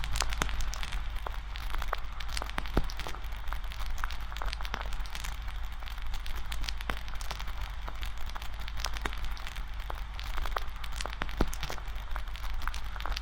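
Wood campfire crackling, with irregular sharp pops and snaps scattered through it over a steady low rumble.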